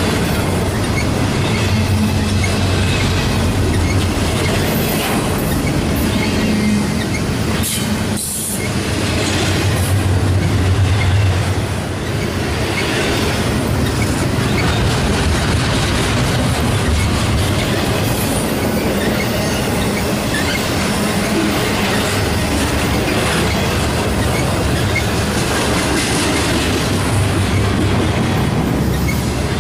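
Freight cars of a Union Pacific double-stack intermodal train rolling past: a steady rumble and clatter of steel wheels on the rails, with some wheel squeal.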